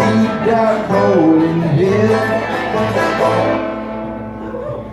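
Live bluegrass band playing the closing bars of a song, with banjo and guitar prominent; the sound thins out and grows quieter near the end as the last chord dies away.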